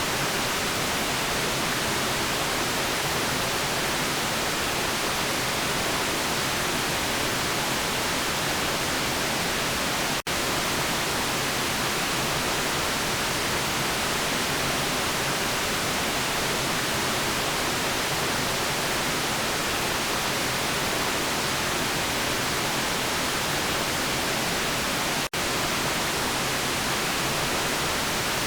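Steady white noise: a broad, even hiss with no tone or rhythm. It drops out for an instant twice.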